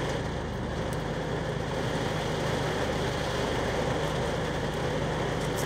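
A car's engine idling with a steady low hum, heard from inside the cabin.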